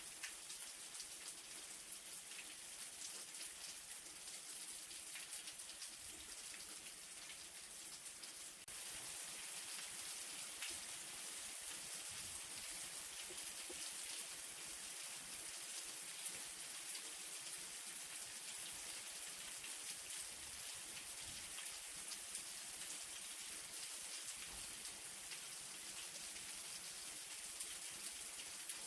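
Light rain falling steadily, a dense even patter of drops. About nine seconds in it turns slightly louder and fuller, then holds steady.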